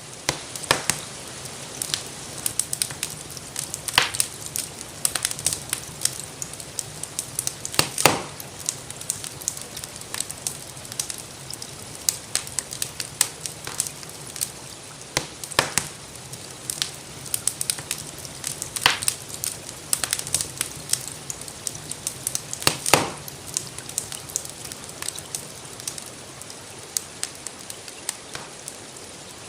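Wood fire crackling in a fireplace: a dense, irregular run of small pops and snaps, with several louder pops, over a steady soft hiss of gentle rain.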